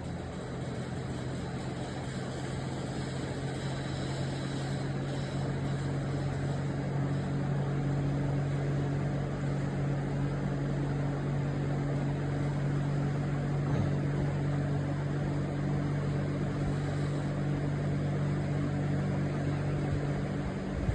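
Vintage Westinghouse two-speed box fan running: a steady electric motor hum under the whoosh of air from the blades. It slowly grows louder over the first several seconds, then holds steady.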